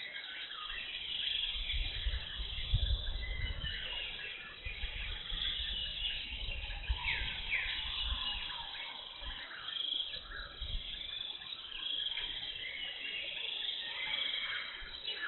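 Several birds calling and chirping in forest, with many short sweeping notes, over a low rumble that comes and goes.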